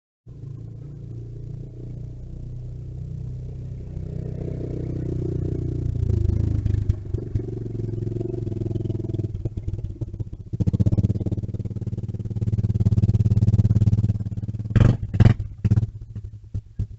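Small mini bike engine running, rising in pitch and loudness as it comes closer. It is loudest for a few seconds in the second half, then gives a few short sharp bursts near the end before it fades off.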